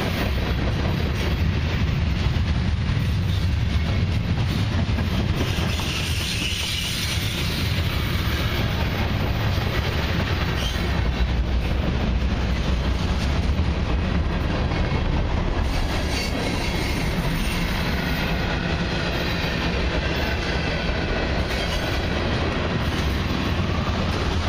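Freight train cars (tank cars, autoracks and coil cars) rolling past close by: a steady, continuous rumble and clatter of steel wheels on the rails.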